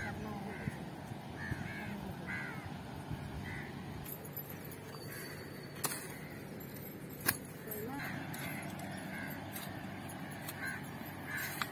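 A bird calling over and over, one short arching call about every second, pausing in the middle and starting again. In the pause come two sharp knocks, a digging tool striking the ground.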